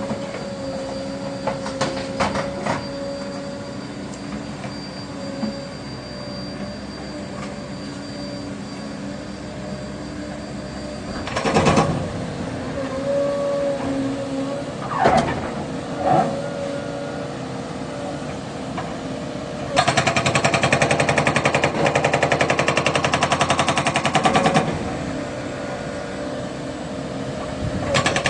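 Caterpillar 307 excavator's diesel engine running steadily. A few single heavy knocks come about midway, then its hydraulic breaker hammers in a fast, even burst of about five seconds, starting again near the end.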